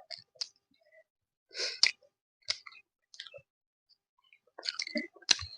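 Eating sounds at a meal: scattered short clicks and smacks of the mouth while chewing, a few at a time, with a small cluster near the end.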